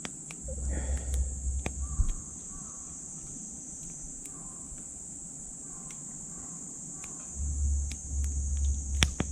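Wood fire in a titanium wood stove crackling with scattered sharp pops, over a steady high chirring of insects. A low rumble comes and goes, from about half a second to two seconds in and again from about seven seconds in.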